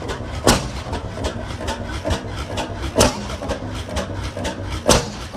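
Large single-cylinder stationary engine running under governor control: a steady low chuffing rhythm as it turns over, broken by three loud pops about half a second, three seconds and five seconds in, one for each time the cylinder fires.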